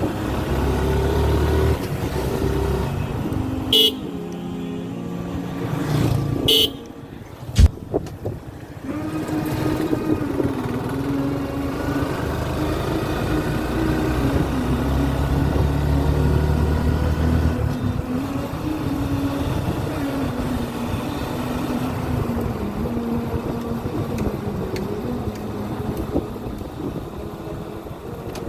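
Suzuki Gixxer single-cylinder motorcycle engine running on the road, its pitch rising and falling with speed. Two short horn toots sound about four and six and a half seconds in.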